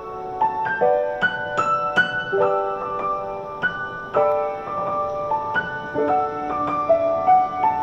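Background piano music: a gentle melody of single notes over soft chords, played at an easy pace.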